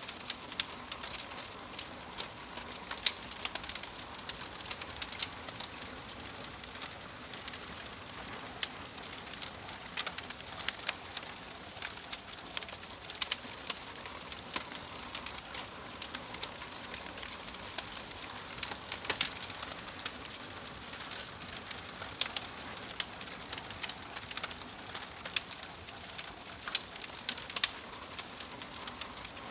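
Wood fire crackling in a fireplace: frequent irregular sharp pops and snaps over a steady soft hiss.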